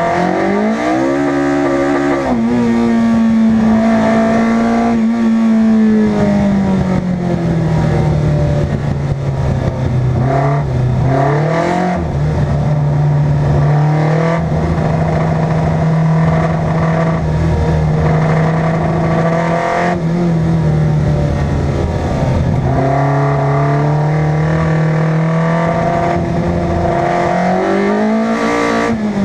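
Car engine running loud under load, the revs climbing and dropping sharply a few times, as with gear changes, and held steady for long stretches in between. It is the car called 'la maxi', whose engine the title says rumbles.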